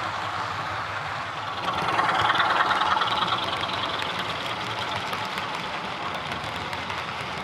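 OO gauge model Class 24 diesel locomotive running with its onboard sound playing a steady diesel engine sound through the model's small speaker, which swells louder for about a second around two seconds in.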